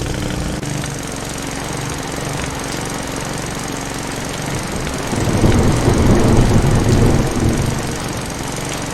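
Petrol lawn mower engine running steadily with a fast chugging pulse, growing louder about halfway through for a couple of seconds, then easing back.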